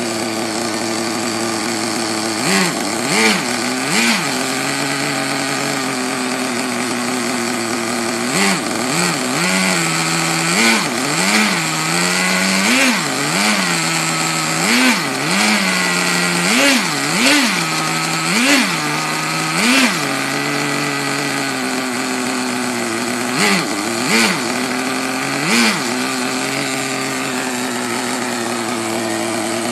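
Small two-stroke nitro engine of an HSP Backwash RC buggy idling, with the throttle blipped in short revs that rise and fall back, about one a second through the middle stretch.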